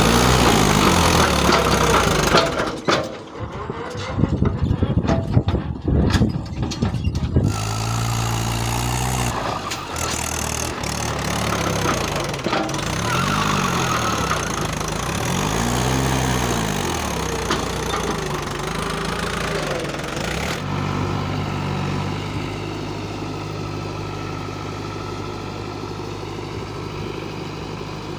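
Loaded tractor's diesel engine working hard: a rough, pulsing stretch early on, then revving up and dropping back several times. From about 20 s in it settles into a steady idle.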